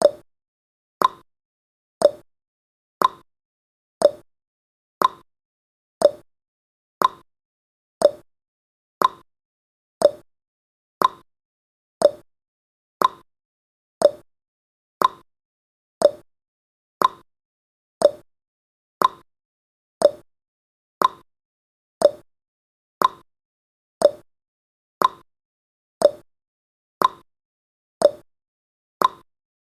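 Clock-style tick-tock sound effect of a countdown timer: one short click every second, alternating between a higher and a lower pitch.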